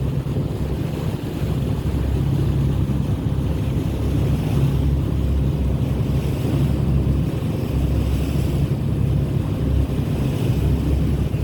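A boat's engine drones steadily at sea under the rush of water, with wind buffeting the microphone. A hiss of wash or spray swells and fades every couple of seconds.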